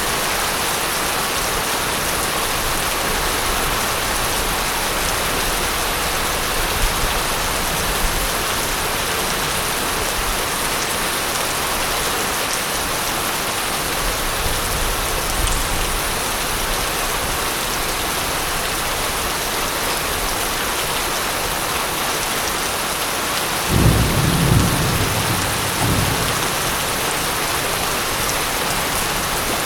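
Steady heavy rain falling, with low thunder rumbling now and then and a louder roll of thunder about three-quarters of the way through.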